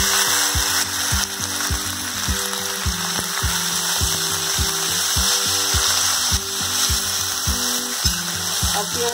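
Chopped onions sizzling as they fry in hot mustard oil, heard as a steady hiss, over background music with a steady beat.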